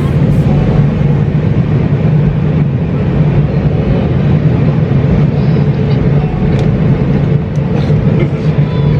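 Airliner cabin noise in flight: a steady, loud engine and airflow drone with a low hum, unchanging throughout.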